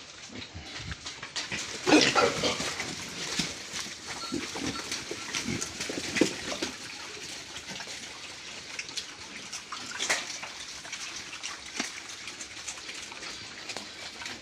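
Pigs grunting, with a louder call about two seconds in and another around ten seconds.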